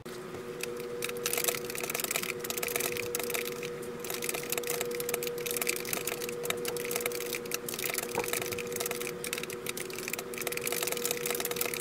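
Typing on a keyboard, rapid irregular key clicks, over a steady hum.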